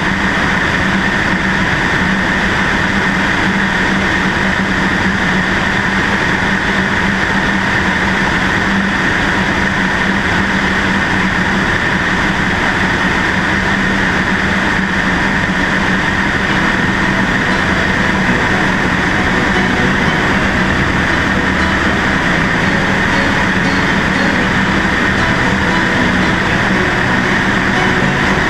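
Cessna 152's four-cylinder Lycoming engine and propeller running steadily, heard through a GoPro mounted on the left wing.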